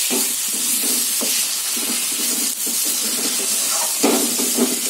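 Spice masala with tomato sizzling as it fries in a kadai, with a metal spatula scraping and stirring it against the pan in short strokes, several close together about four seconds in.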